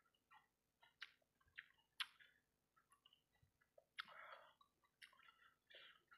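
Faint close-up eating sounds: a person chewing fried rice-ball satay in sauce, with irregular wet mouth clicks and smacks. The sharpest clicks come about one, two and four seconds in.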